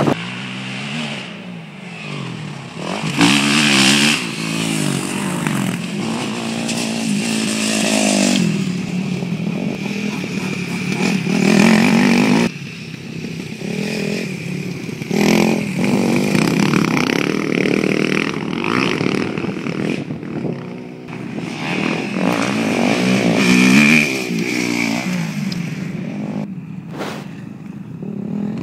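Dirt bike engine on a motocross track, revving up and dropping back over and over as the bike accelerates and eases off.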